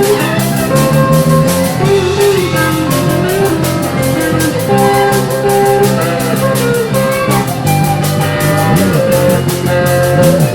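A live band playing a rock-and-roll song, with guitar over a steady drum beat.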